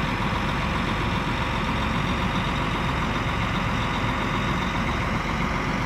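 Tractor engine running at a steady speed with a low, even rumble.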